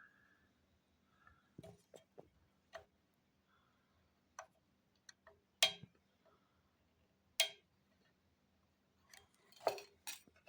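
Scattered light clicks and taps, irregular and a second or two apart, the loudest two in the middle, over a faint steady hum.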